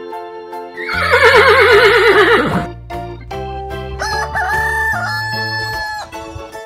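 A loud farm-animal call with a quickly wavering pitch that falls away, lasting about two seconds, followed by a few held notes of music.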